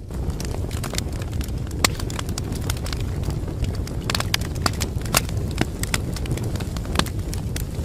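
Wood fire burning in a fireplace: a steady low rumble of the flames with irregular crackles and sharp pops, a few louder pops standing out.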